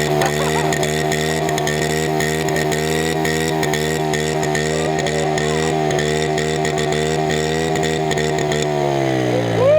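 Small single-cylinder pit bike engine held at high, steady revs, then dropping in pitch near the end as the throttle comes off.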